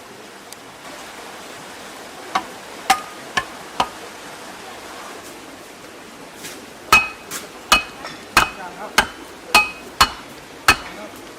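Hammer striking with a short metallic ring on each blow, typical of nailing. Four blows come about two seconds in, then a steadier run of about eight, roughly two a second, from about seven seconds in.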